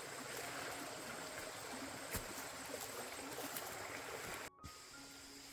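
A steady rushing noise like running water, with a single sharp knock about two seconds in. About four and a half seconds in it cuts off, leaving quieter outdoor ambience with a few faint thin tones.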